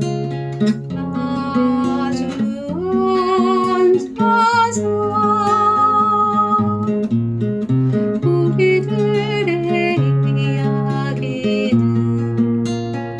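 Acoustic guitar strummed in steady chords, with a wavering melody line with vibrato carried over it through most of the passage.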